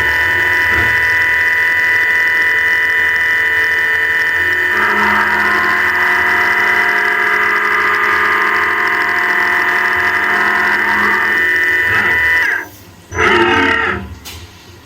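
CNC milling machine cutting metal at high spindle speed: a steady, high whine made of several held tones. It cuts off about twelve and a half seconds in, with one short burst of cutting just after.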